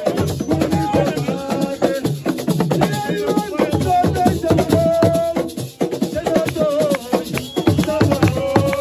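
Live assiko music: fast, dense drumming and rattling shakers with singing voices over them.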